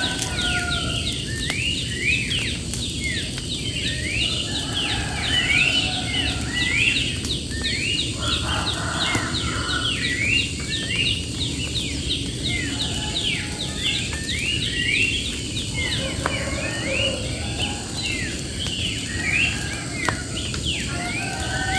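Songbirds singing in quick runs of sharp, repeated chirps, phrase after phrase every couple of seconds. Underneath there is a steady high insect drone and a low, even rushing noise.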